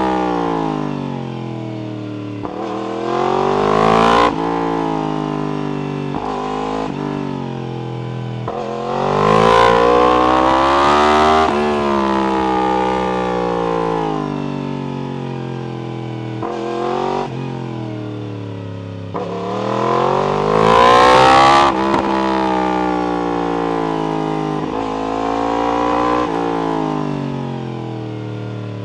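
Yamaha R1's inline-four engine through an Akrapovic exhaust, heard while riding: the revs climb hard in three bursts of acceleration, about 3, 10 and 21 seconds in, broken by quick gear changes, and fall away on the overrun in between.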